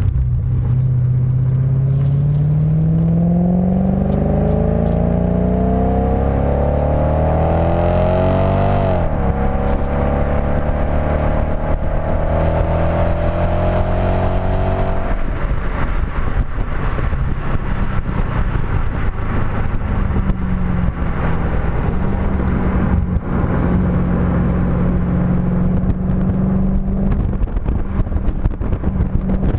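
Audi B7 S4's 4.2-litre V8 through a STaSIS aftermarket exhaust under hard acceleration: revs climb, drop sharply at an upshift about nine seconds in, and climb again. About halfway through the throttle comes off and the engine drops to lower, steadier revs with a rough, crackly exhaust note.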